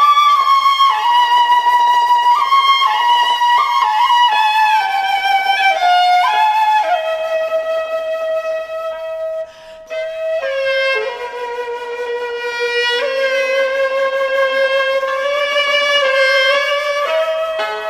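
Xiao, the Chinese end-blown bamboo flute, playing a slow melody with sliding ornaments, pausing briefly about halfway through.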